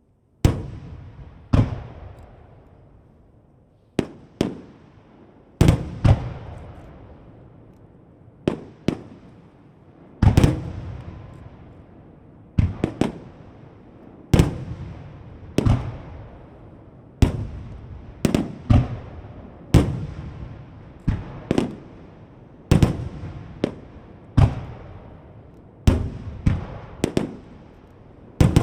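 Star mine fireworks barrage: aerial shells bursting in quick succession, about one sharp bang every second or two, some in close pairs. Each bang trails off in a long rolling echo. The bangs begin about half a second in.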